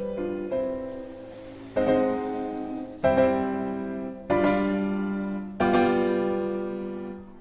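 Background piano music: a few quieter notes, then four struck chords a little over a second apart, each ringing and fading.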